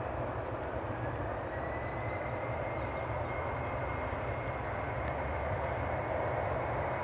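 Boeing 717's rear-mounted Rolls-Royce BR715 turbofan engines running while the airliner taxis: a steady rush with a thin whine that rises slightly in pitch about a second in and then holds.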